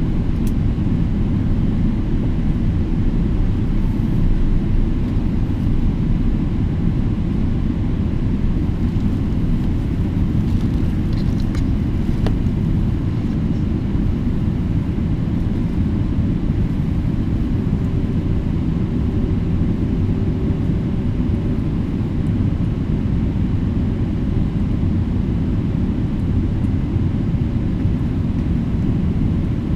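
Steady low rumble inside the cabin of a Boeing 777-300ER, its GE90 engines running at low taxi power on the ground before takeoff.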